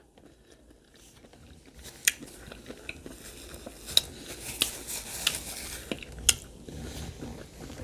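Close-miked chewing and biting of food, starting about a second and a half in, with several sharp mouth clicks in between.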